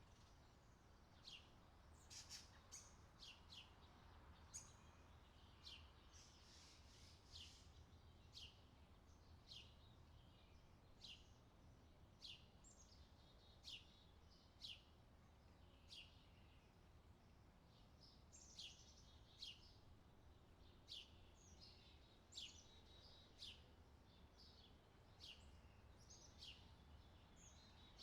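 Faint outdoor summer ambience: a small bird repeating short, high, falling chirps about once a second, over a low steady rumble.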